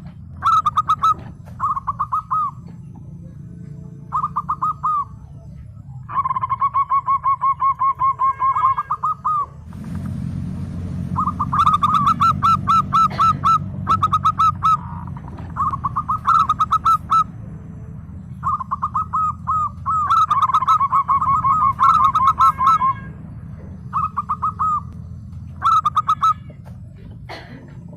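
Zebra doves (perkutut) cooing in short, rapid staccato phrases repeated every second or two, with a longer fast trill from about six to nine seconds in. A steady low hum runs underneath and grows louder about ten seconds in.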